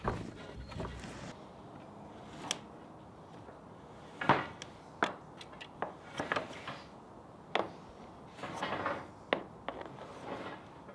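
Scattered knocks, clicks and a short rubbing scrape as a power cord is pushed and fed through a hole drilled in the wall.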